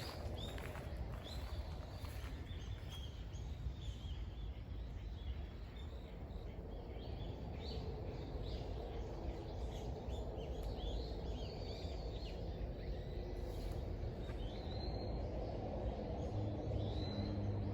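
Small birds chirping repeatedly over a steady low background noise; a low steady hum joins in near the end.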